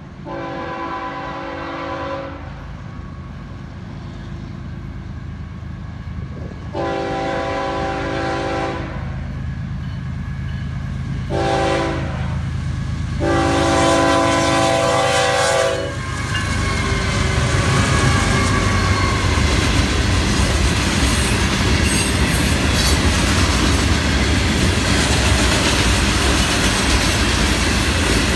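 Florida East Coast Railway freight train's multi-chime locomotive air horn sounding the crossing signal, long, long, short, long. As the last blast ends, the locomotives pass close and the train's wheels clatter and rumble steadily over the rails.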